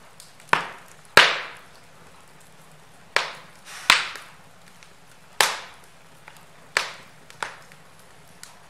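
Logs burning in a fireplace, popping sharply about seven times at irregular intervals, with faint small crackles in between.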